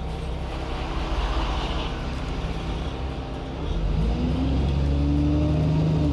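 Engine and Voith automatic gearbox of an Alexander Dennis Enviro 400 double-decker bus running, heard on board. About two-thirds of the way through the engine note rises and gets louder as the bus accelerates, then holds steady.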